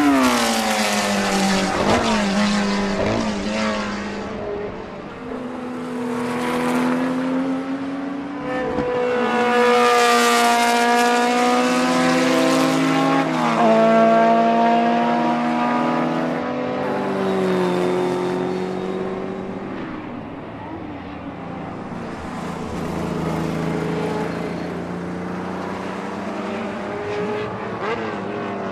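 BMW M12/7 2.0-litre four-cylinder Formula 2 racing engine running hard, its revs climbing and dropping again and again, with sharp falls in pitch at the start and about halfway through.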